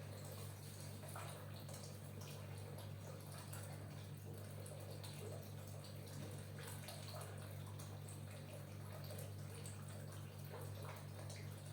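Faint wet, slick sounds of oiled hands knuckling and rubbing over skin, with a steady low hum underneath.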